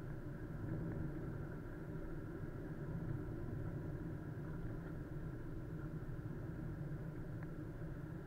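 Steady car engine running with a low rumble, heard from inside the car through a dashcam's microphone.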